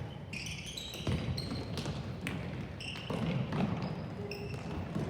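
Indoor team game: a ball thudding on a hard court floor a few times, with short high squeaks of sneakers on the floor between the thuds.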